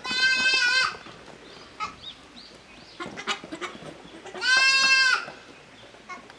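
Goat bleating twice, two loud drawn-out calls about four seconds apart, with a few faint knocks in between.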